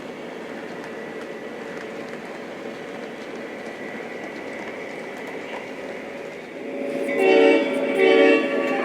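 Model train running on its track with a steady hum and whine. Near the end a horn sounds in two short blasts.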